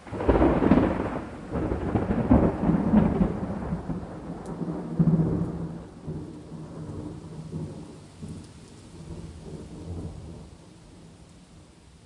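A thunderclap cracks in just after the start and rolls on in several loud surges for about five seconds, then rumbles away slowly, with rain hissing beneath it.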